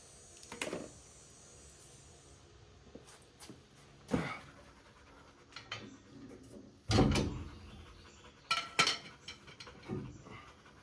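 Irregular knocks and clanks of tools and parts being handled while working on the truck, the loudest a heavy thump about seven seconds in, followed by two sharp hits.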